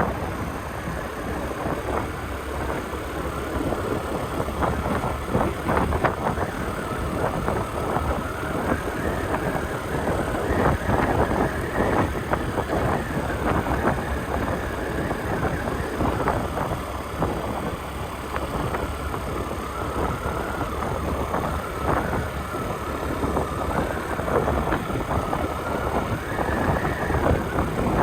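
Motorcycle engine running while riding at low speed, with wind buffeting the microphone in irregular gusts.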